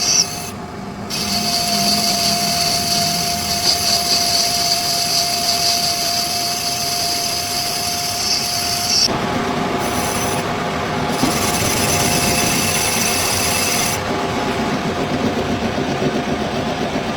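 A power tool running steadily on a workpiece, with a constant tone under a hissing, rubbing sound; the sound changes about nine seconds in and again about fourteen seconds in.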